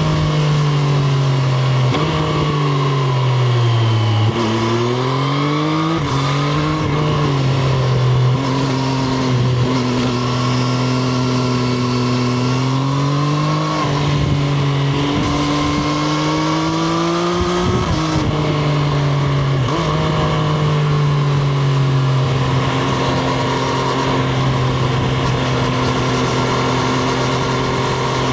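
Triumph Street Triple RS's three-cylinder engine heard onboard while riding. Its note falls over the first few seconds, then climbs in several stretches with quick steps in pitch between them, and holds fairly steady for the last several seconds.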